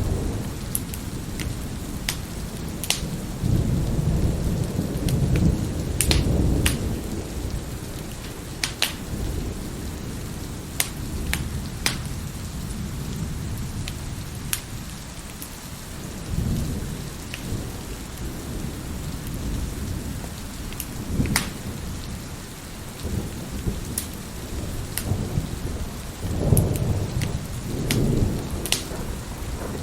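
Wood fire crackling with sharp, scattered pops over steady heavy rain, with several low rolls of thunder swelling and fading.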